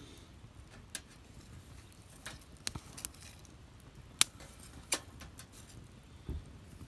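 Wood fire crackling: irregular sharp pops and snaps, the loudest a little past four seconds in, over a faint low rustle of the flames.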